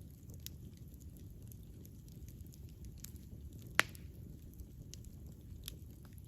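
Campfire burning with a steady low rumble and scattered small crackles, and one loud sharp pop a little under four seconds in.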